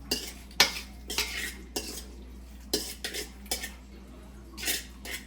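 A metal fork clinking and scraping against a cooking pot, in about nine irregular knocks and short scrapes.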